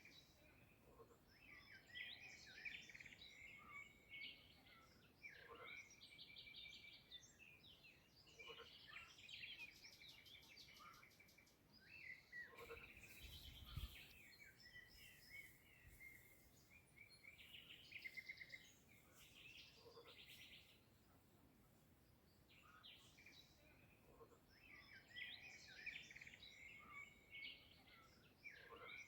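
Faint birdsong from several songbirds, with short chirping calls and quick buzzy trills repeating throughout, thinning out for a few seconds past the middle. A brief soft low thump comes about halfway through.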